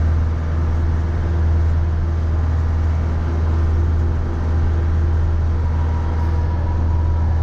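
Mahindra 3550 tractor's 50-horsepower diesel engine running steadily, a constant low hum, with a faint steady whine coming in near the end.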